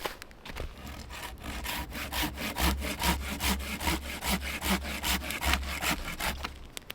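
Hand saw cutting through wood in quick back-and-forth strokes, about three a second, building up over the first couple of seconds and stopping near the end.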